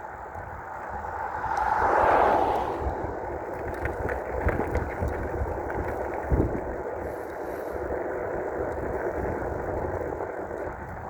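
Road and wind noise while riding a 5,000-watt dual-motor electric bike: a steady rush of tyres and air with low rumble. It swells about two seconds in, and there is a single sharp knock past the middle.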